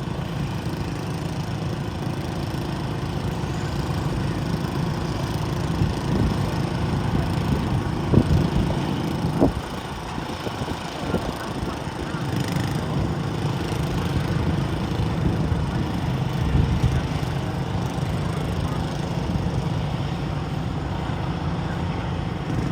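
A garden tractor's small engine running steadily under load as it pulls a weight-transfer sled down the track.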